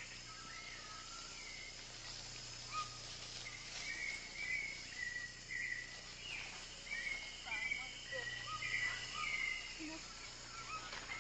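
Rainforest birds and insects: many short bird chirps and calls, with a rapid trill starting about six seconds in and lasting a few seconds, over a steady high insect drone.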